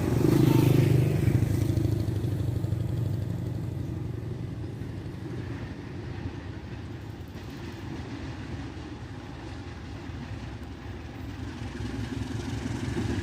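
Low rumble of a heavy vehicle passing close by, fading away over several seconds into a steady low hum, which begins to build again near the end.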